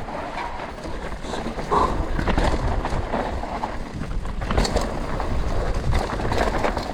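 Full-suspension mountain bike (Canyon Spectral 125) riding a rough dirt trail: tyres rolling over dirt and stones with a steady noisy rush, and the bike rattling and knocking over bumps many times.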